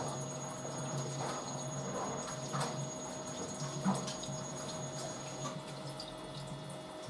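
Drum washing machine turning, with water sloshing and dripping in the drum in irregular splashes over a steady motor hum.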